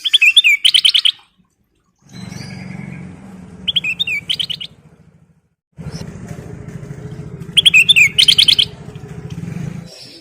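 Kutilang emas bulbul singing: three short bursts of fast, rippling whistled notes, repeated about every three and a half seconds. A low droning hum, like a motor, comes in about two seconds in, breaks off briefly and stops near the end.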